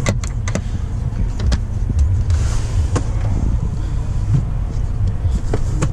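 Scattered clicks and knocks of a car's cargo-area storage covers and panels being opened and handled, over a steady low rumble, with a brief rustle about two and a half seconds in.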